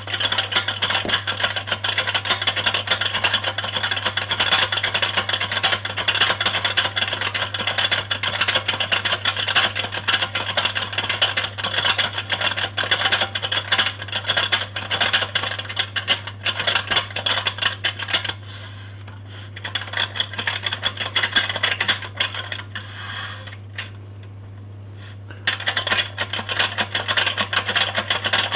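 Boomaroo toy washing machine running: a rapid, dense rattling clatter over a steady low hum. The clatter breaks off twice, the second time for a couple of seconds, then starts again.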